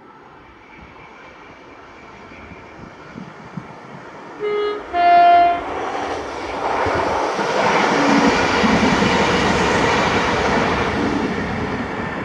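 ScotRail passenger train sounding its two-tone horn, a short lower note then a louder, higher one, then passing close by. The rush of its wheels on the rails swells and begins to fade near the end.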